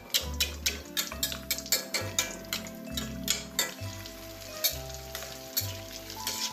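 Battered banana fritters sizzling and crackling in hot oil in a wok, with the clicks of a utensil against the pan as they are turned over to gather crispy batter on them.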